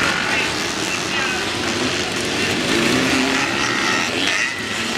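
Several vintage motocross motorcycle engines running together, revving up and down so their pitches rise and fall and overlap.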